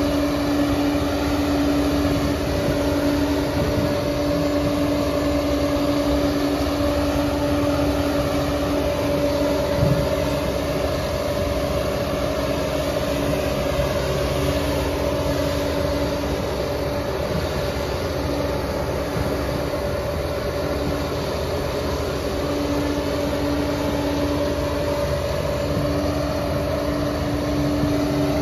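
Liebherr PR 746 bulldozer running steadily under work, a constant heavy-machine drone with a steady whine over it, and a single knock about ten seconds in.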